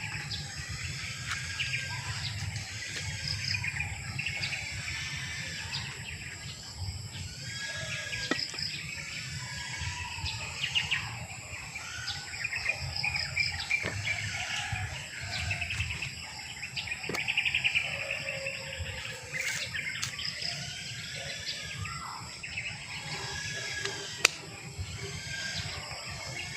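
Many birds chirping and calling over one another in a continuous, overlapping chorus, over a steady low rumble, with a sharp click near the end.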